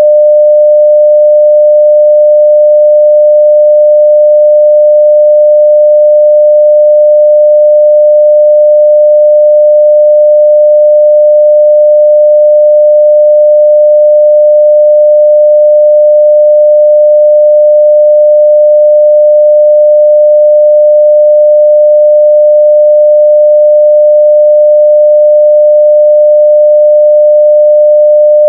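A 600 Hz sine-wave test tone at full level, a single steady pure pitch with no change.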